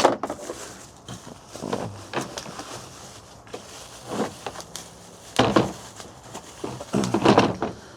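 Handling of the vacuum's parts and packaging during unboxing: irregular rustling with light knocks and clicks, busiest around the middle and near the end.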